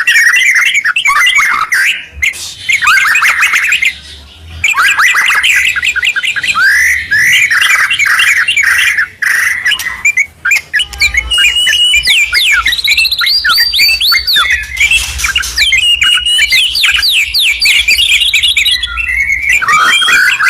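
White-rumped shama and yellow-vented bulbul singing together: loud, fast runs of sweeping whistled and chattering notes, broken by a few short pauses.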